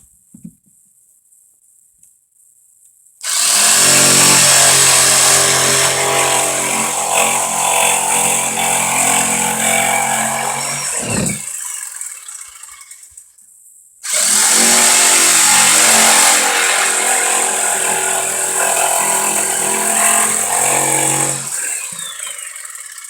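A power tool's motor running twice: it starts suddenly about three seconds in, runs for roughly ten seconds and winds down, then starts again and runs about eight seconds before dying away near the end.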